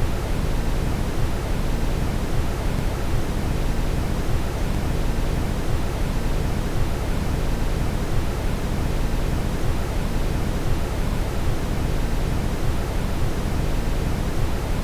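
Steady brown noise: an even, deep rushing hiss, heaviest in the low end, that does not change.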